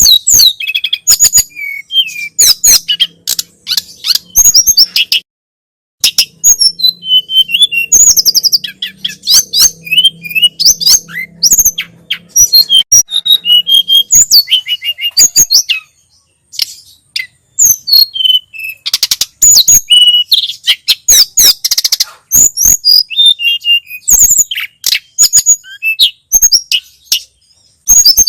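Tledekan gunung (sulingan gunung) songbird singing a fast, varied run of high chirps, trills and quick sweeping notes, broken by brief pauses, as a masteran song recording for training cage birds.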